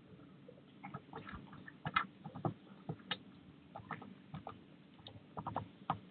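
Birds at a garden feeder making irregular light taps and ticks, a few a second, on the wire and the feeding tray.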